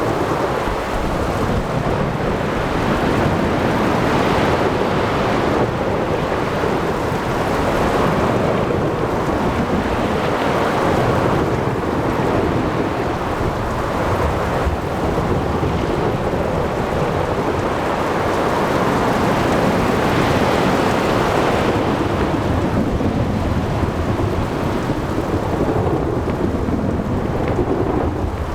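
Thunderstorm over the sea: a steady wash of rain and surf with low thunder rumbling, swelling and easing every few seconds.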